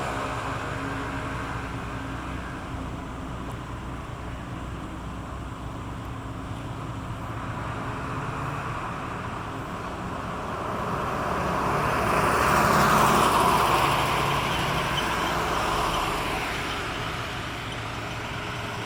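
Steady low engine drone, with a louder passing rush of noise that builds, peaks about twelve to fourteen seconds in, then fades.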